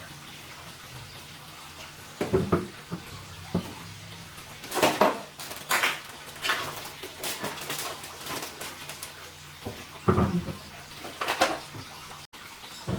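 Hard plastic laptop parts and tools being handled: irregular knocks, clicks and short scrapes, with the loudest knocks about two seconds in, around five to six seconds in, and again near ten and eleven seconds in.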